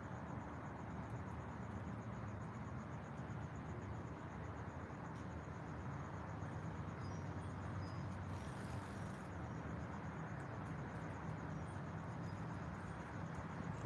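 Outdoor nature ambience: a steady low rumble under an insect chirping in a fast, even rhythm high up, with a few short, faint bird chirps in the second half.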